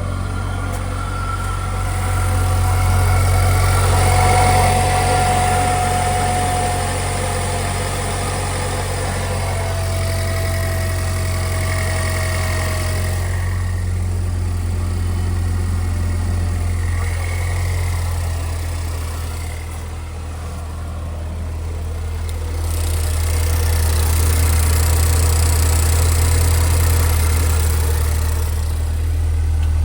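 2009 Saturn Sky Redline's turbocharged 2.0-litre four-cylinder idling steadily. A faint whine slowly falls in pitch over the first half, and the engine sound dips in loudness about two-thirds through, then grows louder again.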